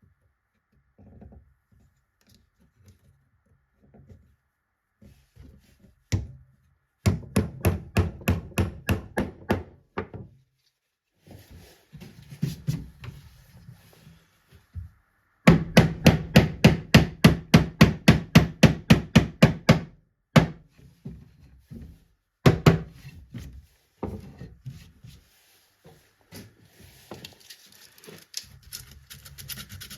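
Hand work on wood: rapid back-and-forth rubbing or scraping strokes, about six a second, in two long runs, with scattered knocks and handling sounds in between.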